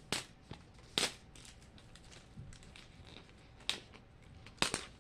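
Plastic wrapping crackling in a few sharp snaps as it is twisted round and round to get it off a Mini Brands capsule ball. The loudest snaps come about a second in and near the end.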